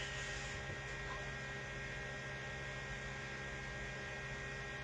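Steady electrical mains hum with a faint even hiss.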